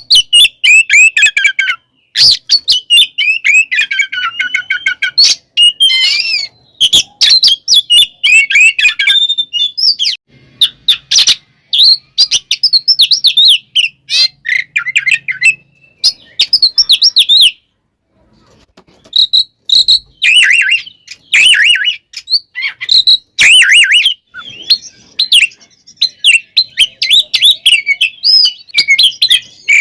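Oriental magpie-robin (kacer) singing a loud, fast, fighting-style song: rapid runs of sweeping whistled notes with sharp clicks between them. There is a brief pause a little past the middle.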